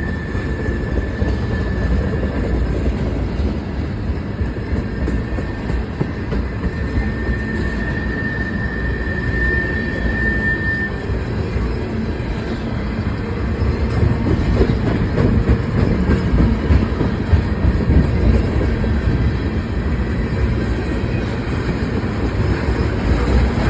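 Freight cars of a mixed freight train rolling past on the rails with a steady rumble, a thin high wheel squeal coming and going over roughly the first ten seconds, and denser wheel clatter in the second half.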